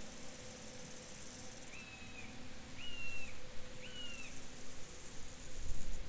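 Field ambience: insects chirring steadily in a high pulsing haze. A bird gives three short, level calls about a second apart. A low rumble comes in near the end.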